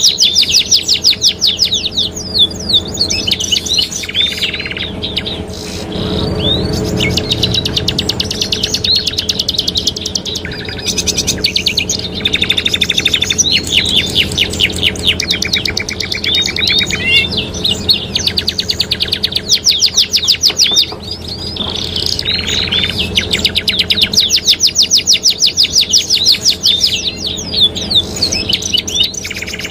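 Domestic canaries singing: long, fast rolling trills of rapidly repeated high notes, broken by brief pauses and chirps, over a steady low hum.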